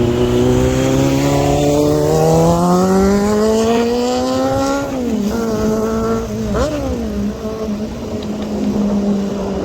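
Superbike engine revving: the pitch climbs steadily for about five seconds, falls back, gives one short throttle blip, then settles to a steady idle.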